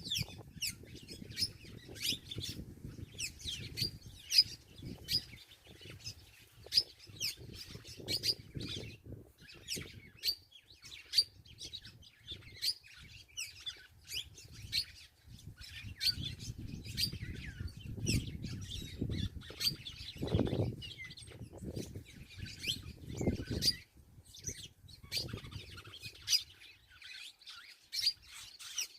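Birds chirping: a dense, unbroken chatter of short, high chirps, several a second, over a low rumble that grows louder a little past the middle.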